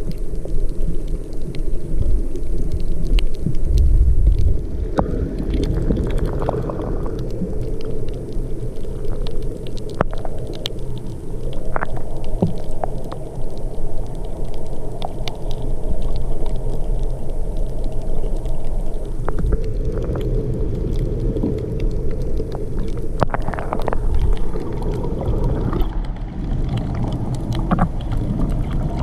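Muffled underwater sound: a steady low rumble of moving water, with scattered small clicks and crackles.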